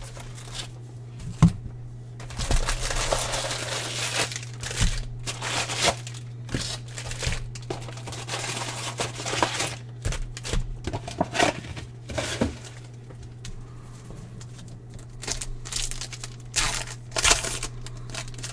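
Crinkling and tearing of foil trading-card pack wrappers being ripped open and handled, in repeated crackling bursts with a sharp click about a second and a half in. A steady low electrical hum runs underneath.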